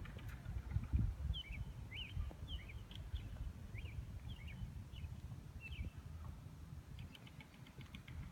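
A small bird chirping over and over in short, quick notes, with a low rumble underneath.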